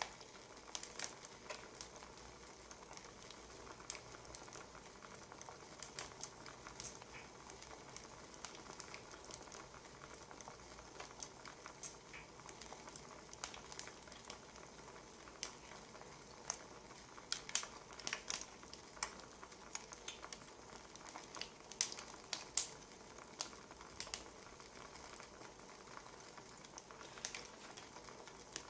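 Burning firewood crackling: a faint steady hiss with irregular sharp pops and snaps, coming thicker about two-thirds of the way through.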